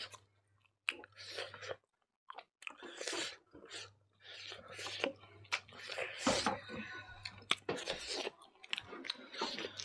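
Two people chewing chicken curry eaten by hand: irregular chewing and mouth noises with several sharp clicks.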